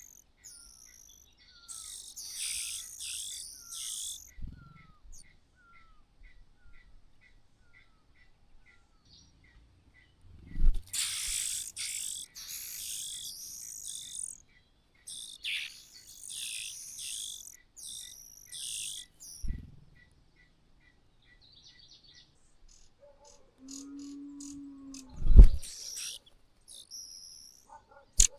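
Small birds chirping in repeated bursts of high twittering, over a steady series of short high notes about twice a second. A few dull low thumps break in, the loudest about three quarters of the way through.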